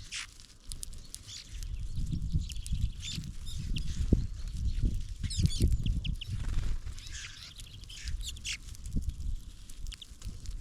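Small songbirds giving short, high chirps and calls at a feeder, many of them through the whole stretch. Low knocks and rumbling run underneath.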